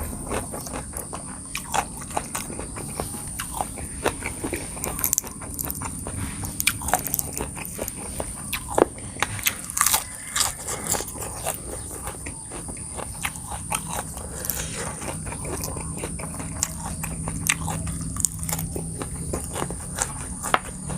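Close-miked eating: biting and chewing crunchy food, with irregular crisp crunches and wet clicks, from a spicy seafood pounded salad eaten with fresh raw vegetables. A steady high-pitched tone runs underneath.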